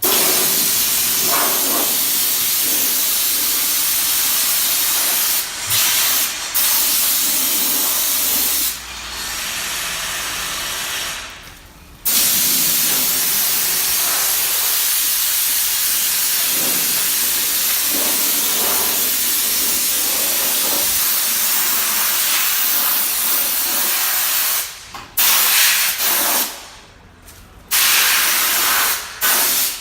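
Pressurised spray hissing in long, even bursts that stop and start, each running several seconds, with a few short bursts near the end.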